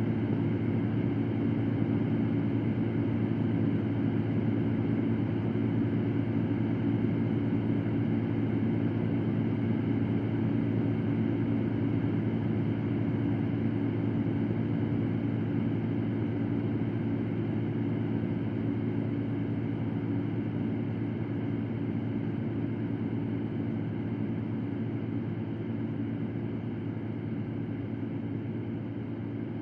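Electric fan running steadily: a constant motor hum with whooshing air noise, easing slightly toward the end.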